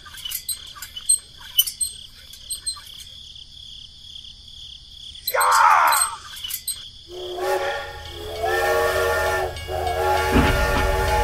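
Toy steam locomotive's electronic whistle, a chord of steady tones sounding in repeated blasts through the second half. Before it come light scattered clicks and a short falling whoosh about halfway.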